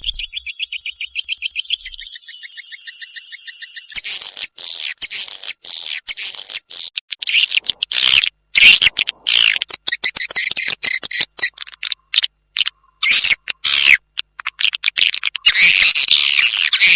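Swiftlet calls played as a swiftlet-house lure sound. The first few seconds are a fast, even run of repeated chirps. About four seconds in, this gives way to dense, overlapping high twittering with abrupt breaks.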